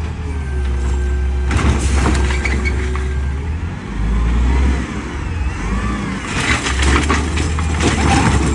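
Peterbilt 520 garbage truck's diesel engine running with a steady low rumble, with several bursts of mechanical clatter and a few squealing glides over it.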